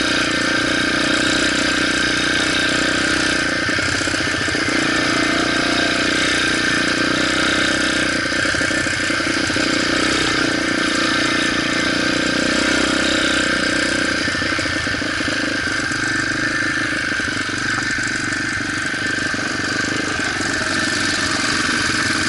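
Motorcycle engine running steadily, its pitch holding constant with no revving.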